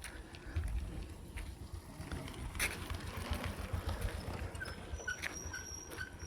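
Wind rumbling on the microphone of a handheld camera during a walk, with scattered clicks and knocks. Near the end, a short high chirp repeats about twice a second.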